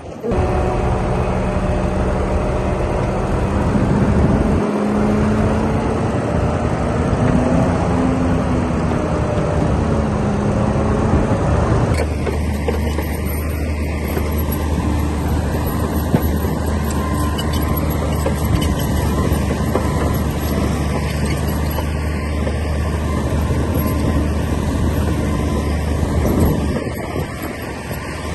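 Bulldozer's diesel engine working under load, its pitch rising and falling over a few seconds. About twelve seconds in the sound changes abruptly to a steadier, deeper engine drone.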